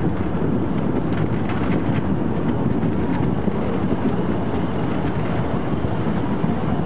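Narrow-gauge park railway train running along the track, heard from an open carriage: a steady low rumble of wheels on rails with faint clicks.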